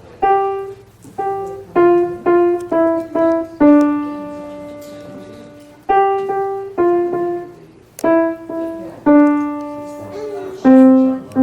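A child playing a simple melody on the piano, one note at a time: a run of short struck notes, each ringing and fading, with two notes held longer, about four seconds and nine seconds in.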